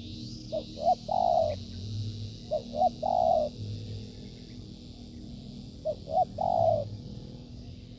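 Spotted dove cooing three times, each phrase two short notes followed by a longer rolling coo. A steady high-pitched buzzing drone runs underneath.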